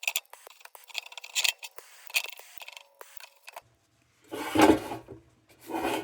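A tool scraping and rubbing on the lantern's tinned sheet metal to take off small solder blobs. Scattered clicks and short scrapes come first, then two louder, longer rubbing strokes near the end.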